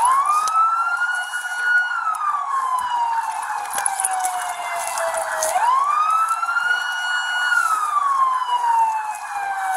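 Emergency vehicle siren on a slow wail: the pitch rises, holds briefly, then falls, twice over, each cycle about five and a half seconds long.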